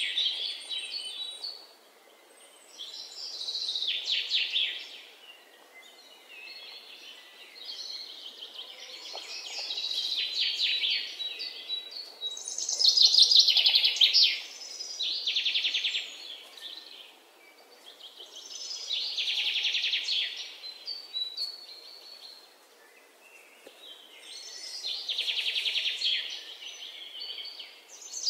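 Birdsong: a fast trilling phrase of one to two seconds, repeated every few seconds, rising and fading each time.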